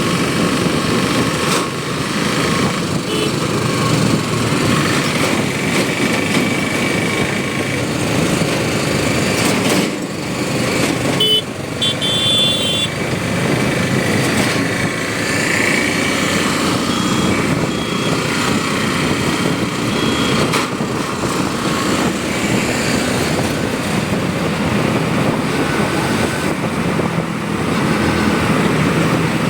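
Motorcycle engine running steadily under way, with road and wind noise; a short high-pitched beep about twelve seconds in.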